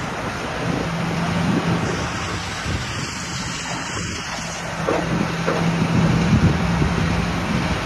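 Rock crusher running: a steady machine drone with a hum, broken by a few knocks and grinding of stone.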